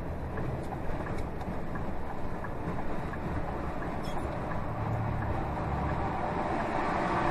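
Scania lorry's diesel engine and road noise heard from inside the cab while driving, a steady low rumble.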